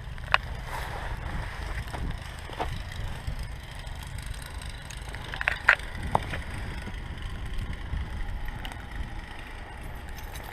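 A steady low rumble of wind on the microphone, with a few scattered crunches in snow.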